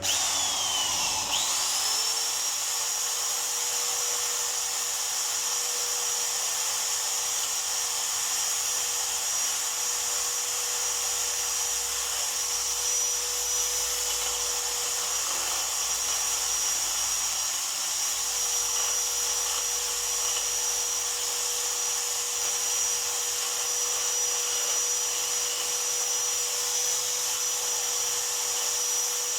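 A small high-speed motor whines as it spins up over about two seconds, then runs steadily at a constant high pitch.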